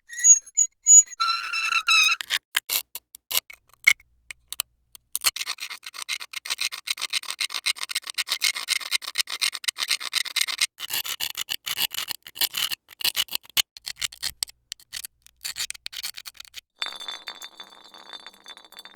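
A run of short foley effects: a few ringing metallic clinks, then long stretches of rapid clicking and rattling, ending with a steady high tone.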